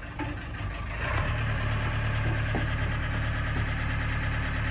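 New Holland Powerstar 75 tractor's diesel engine idling steadily, getting louder about a second in.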